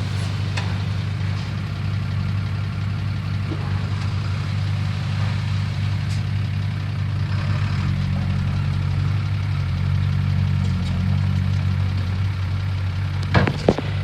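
Heavy diesel engine of a work machine running steadily at a low, even speed, with a couple of sharp knocks near the end.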